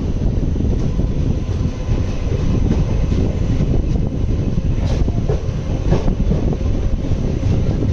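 Running noise of an Indian Railways ICF passenger coach travelling at speed: a steady, heavy rumble of wheels on track, with a couple of sharper clacks about five and six seconds in.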